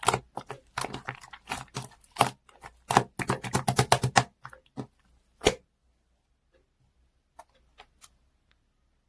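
Rapid, irregular clicks and taps, as of something being handled or tapped on a hard surface, stopping about five and a half seconds in; a few faint ticks follow.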